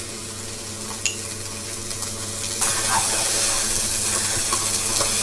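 Chopped vegetables sizzling as they sauté in a steel pot, with a light clink of a spoon on a glass jar about a second in. From about two and a half seconds in, the sizzle grows louder and steady as the vegetables are stirred with a wooden spoon.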